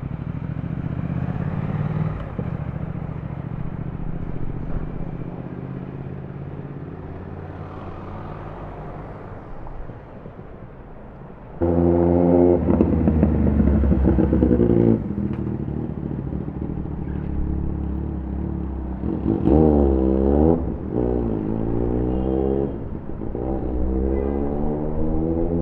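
Motorcycle engines in street traffic: a steady low engine hum, then about twelve seconds in a loud engine note cuts in suddenly. A little later the revs rise and fall sharply twice, and near the end an engine rises in pitch as it accelerates.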